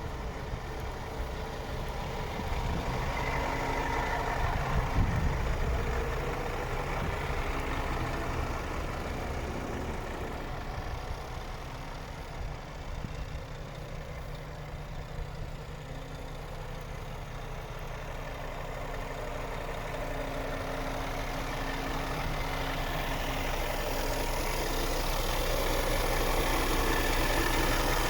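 Scania R450 truck's 13-litre inline-six diesel idling steadily, growing gradually louder over the last several seconds.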